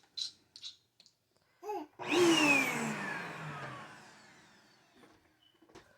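Vacuum cleaner motor briefly switched on, then winding down. Its whine falls in pitch and fades over about three seconds.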